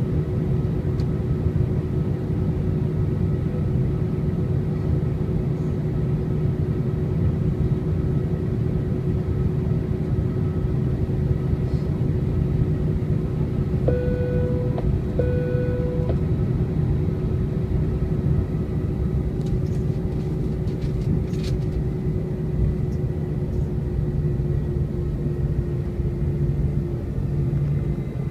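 Steady low rumble and hum inside the passenger cabin of an Airbus A320 on the ground before takeoff. About halfway through, two short identical tones sound back to back.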